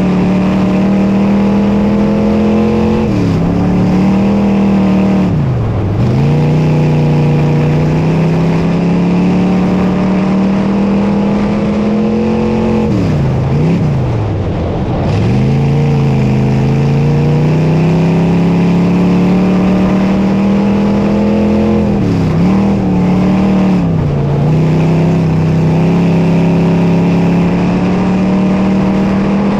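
Dirt modified race car's V8 engine running hard on the track. Its pitch drops sharply three times, about every nine seconds as the throttle comes off for the turns, then climbs steadily back up along each straight.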